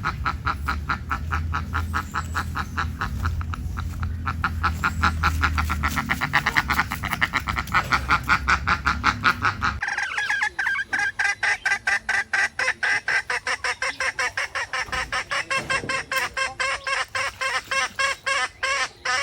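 Waterfowl calling in rapid, repeated honking calls, several a second. About halfway through, a low rumble under the calls drops out suddenly and the calls turn higher and more spaced.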